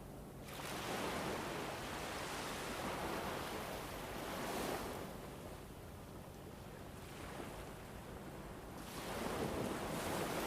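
Ambient soundscape of rushing, even noise that swells up about half a second in, eases off, and swells again near the end, over a faint steady low hum.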